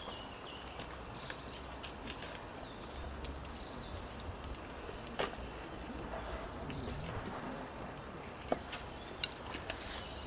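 A songbird sings a short, high, falling phrase about every three seconds, four times in all. A few sharp clicks sound in between, over a faint low outdoor rumble.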